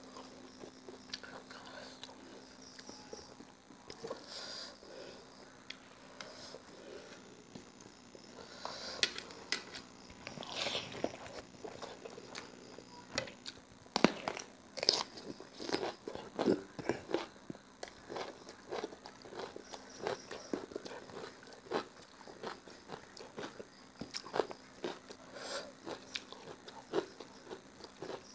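Close-up eating sounds: a person chewing with soft mouth noises, then, from about halfway in, crisp crunching bites and chewing of a raw ripe cucumber.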